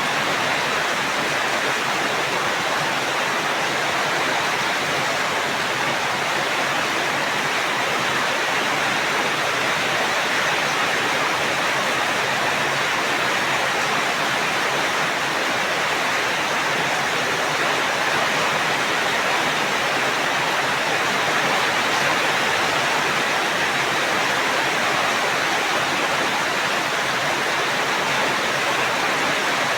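Rain falling steadily as an even, unbroken hiss.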